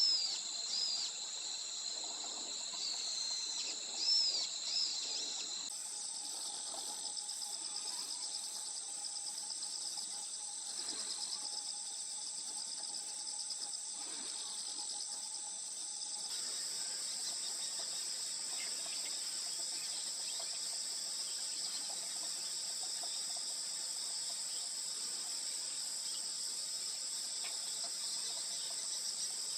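Insects trilling steadily in a continuous high buzz that shifts in character twice. In the first few seconds a bird gives short, repeated arching whistled notes over it.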